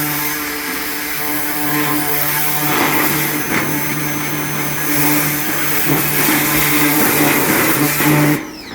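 Ryobi 1900 PSI electric pressure washer spraying: a steady motor-and-pump hum under the loud hiss of the water jet, cutting off suddenly near the end.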